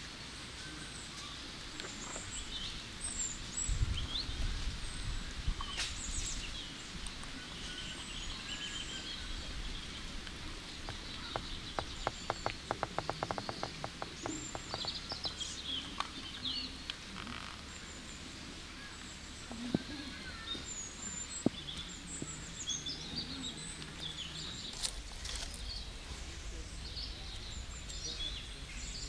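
Small birds chirping and twittering in the background, with a quick run of sharp taps about twelve seconds in and a low rumble at times.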